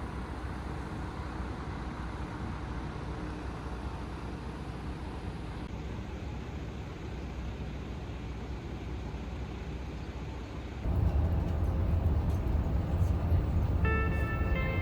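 Steady rumble of a moving vehicle, which grows louder and deeper about eleven seconds in. Music comes in near the end.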